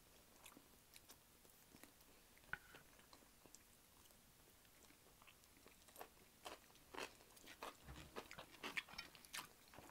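Faint close-up eating sounds: scattered small clicks and smacks of chewing and biting food, coming more often in the second half.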